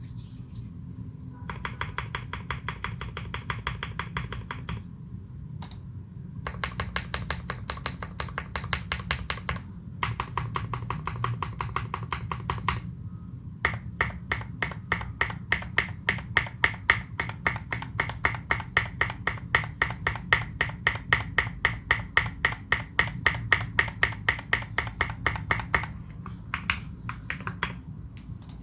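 Custom KBD75v2 mechanical keyboard with fully modded Cherry retooled Black linear switches and Domikey Dolch keycaps, typed on in fast, even runs of keystrokes. The runs are broken by short pauses, with the longest unbroken run over the second half.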